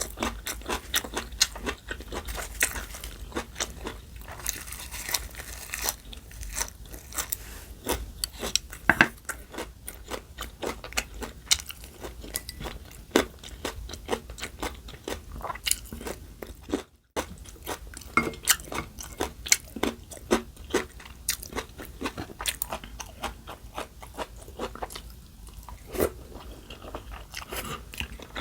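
Close-miked eating sounds: a person chewing and crunching food, with many sharp crisp clicks from biting and chewing. The sound drops out briefly about two-thirds of the way through.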